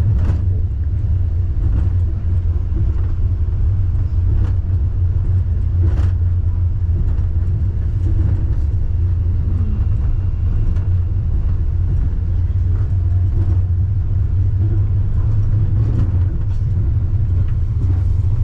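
Steady low rumble inside a Wuppertal Schwebebahn suspension railway car running along its overhead track, with a few faint clicks and knocks.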